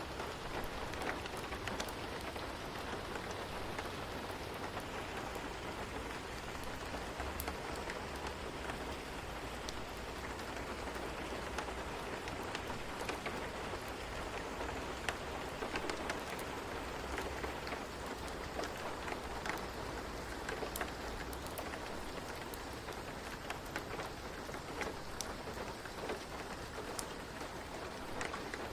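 Steady rain falling on a hard surface, a dense patter of drops with a low rumble beneath.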